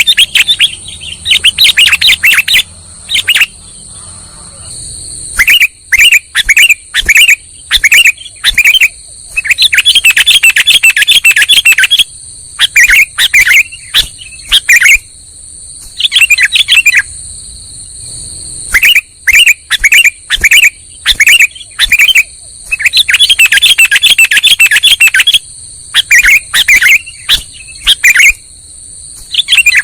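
Sooty-headed bulbul (kutilang) calls played as a bird-trapping lure recording: loud chirping in quick runs of notes and short phrases, broken by brief pauses, over a faint steady high tone.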